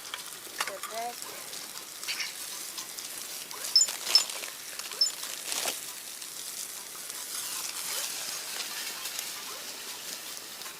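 Aberdeen Angus burgers sizzling and crackling in a pan over a campfire, with a few sharp clicks about four to five seconds in.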